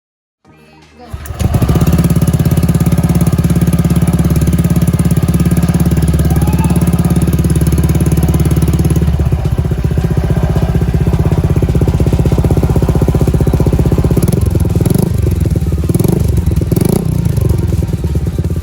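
Honda Click 125i scooter's single-cylinder engine running through an aftermarket Akrapovic exhaust, starting loud and steady, with a few quick revs near the end. Background music plays along with it.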